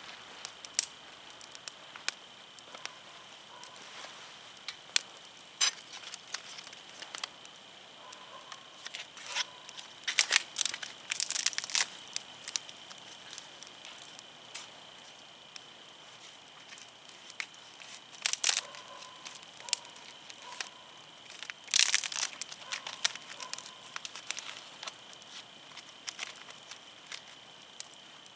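Wood fire crackling: irregular sharp snaps from the burning firewood, with denser runs of crackles about ten, eighteen and twenty-two seconds in.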